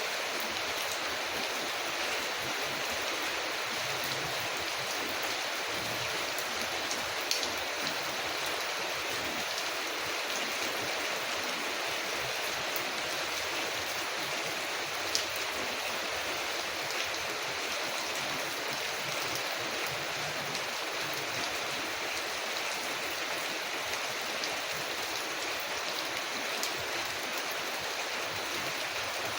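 Steady rain falling on a window, an even hiss with a few sharp clicks standing out now and then.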